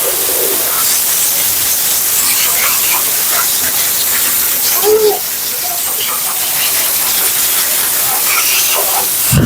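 High-velocity pet dryer blowing a loud, steady hiss through a husky's wet double coat, with a brief whine from the dog about five seconds in.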